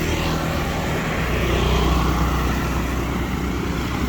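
A vehicle engine running steadily with a low hum, under a wash of motion noise.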